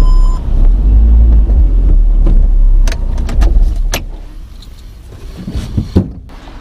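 Car engine idling, heard from the dashboard inside the cabin as a steady low rumble that stops about four seconds in as the engine is switched off. A few sharp clicks come just before it stops, and some knocks near the end.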